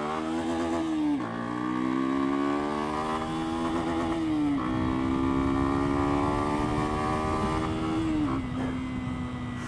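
Lexmoto Venom 125's single-cylinder engine pulling under acceleration. Its pitch climbs through each gear and drops sharply at two upshifts, about one and four and a half seconds in. Near the end the pitch drops again and holds steady.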